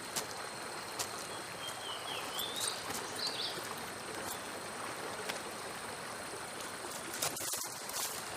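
Outdoor bush ambience: a steady rush like a flowing stream, with a few short bird chirps about two to three and a half seconds in and a couple of light clicks near the end.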